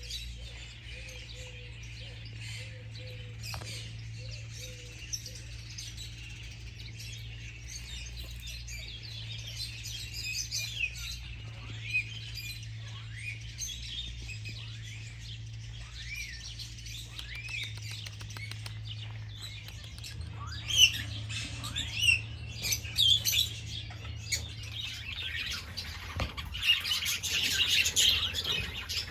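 Many small birds chirping and twittering at once, getting busier and louder over the last few seconds, with a steady low hum underneath.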